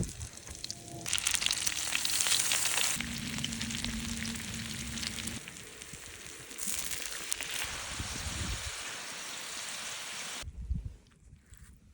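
Food sizzling and crackling in hot fat, in several short cuts that change abruptly, stopping suddenly near the end.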